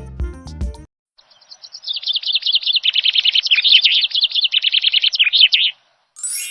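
Background music that stops about a second in, then a small bird chirping in a rapid, high series of notes for about four and a half seconds. A bright ding rings out near the end.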